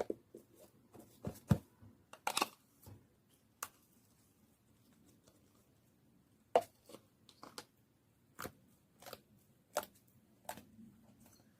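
Slime and its materials being handled: irregular sharp clicks, taps and small pops, about a dozen spread unevenly, the loudest about one and a half and six and a half seconds in.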